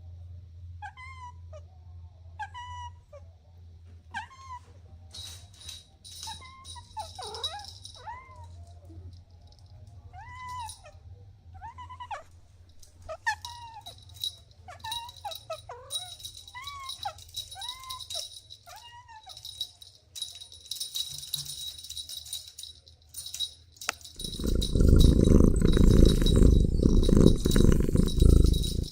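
Kittens meowing over and over in short calls that rise and fall in pitch, about fifteen of them, with a steady high hiss behind. Near the end a loud low rumble covers everything for the last few seconds.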